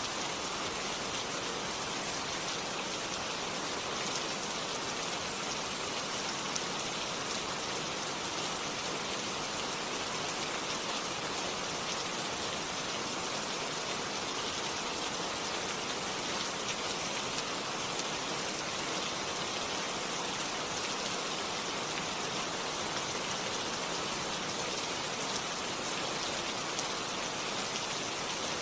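Steady rain falling on a surface, a dense even hiss of raindrops without a break.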